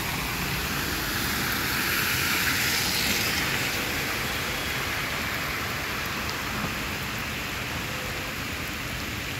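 Heavy rain falling on a flooded road as a steady hiss, mixed with car tyres swishing through standing water. The noise swells briefly about two to three seconds in.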